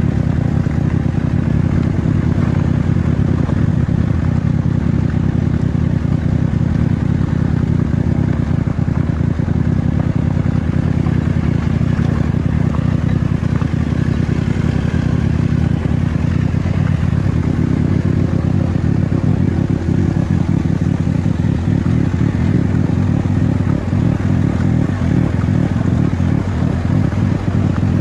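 An engine running steadily with a low, rapidly pulsing drone, its note shifting slightly about two-thirds of the way through.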